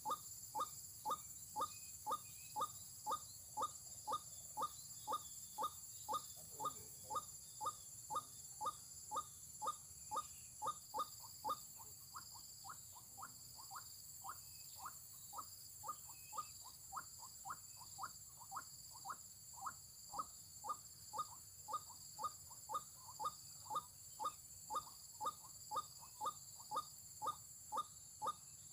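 White-breasted waterhen (ruak-ruak) call: a short note repeated very evenly, about two a second, with a brief lull near the middle.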